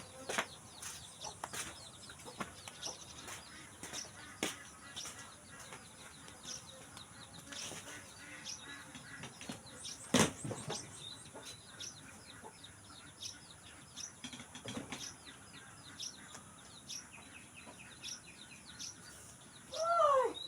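Farmyard birds: chickens clucking and small birds chirping in short, scattered calls, with one sharp knock about ten seconds in and a louder falling call near the end.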